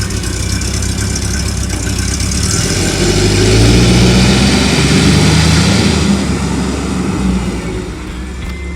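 The street rod's 350 small-block Chevrolet V8 idles, then is revved about three seconds in. It holds the higher engine speed for a few seconds and settles back toward idle near the end.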